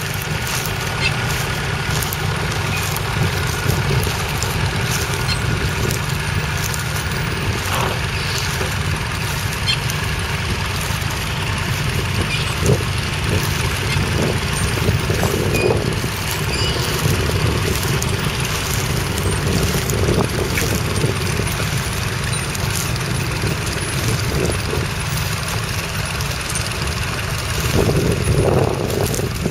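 Nuffield Universal 3 tractor's three-cylinder diesel engine running steadily, a little louder near the end.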